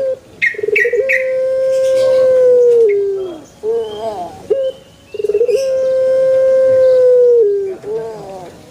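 Puter pelung (Barbary dove, Streptopelia risoria) giving its long crowing call twice. Each call is a short stuttering start, then a long held note that drops in pitch at the end, followed by a few short wavering notes.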